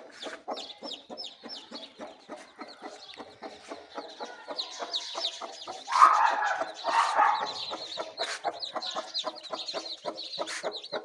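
Indian Ringneck parakeet chattering with rapid short chirps, and two louder calls about six and seven seconds in.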